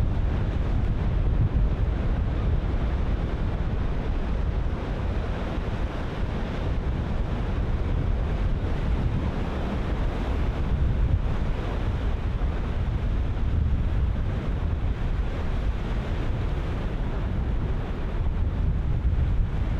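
Ocean surf breaking steadily on a beach, with wind buffeting the microphone in a constant low rumble.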